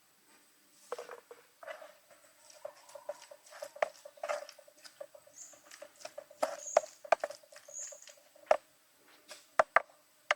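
Close-up handling sounds of cooking preparation: irregular light taps, clicks and rustles, with a few sharper knocks in the second half.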